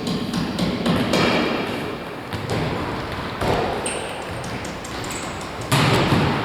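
Ball game in an echoing sports hall: a ball thudding and bouncing several times, the loudest knocks about a second in, mid-way and near the end, with a brief high sneaker squeak.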